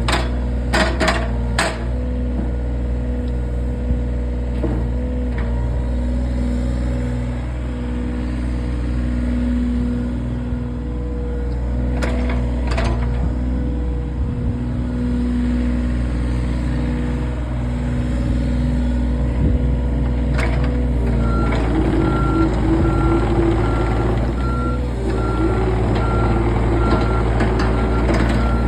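John Deere 35G mini excavator's diesel engine running steadily, with a few sharp metal clanks. About two-thirds of the way in, its travel alarm starts beeping at a steady rate and the engine note shifts under load.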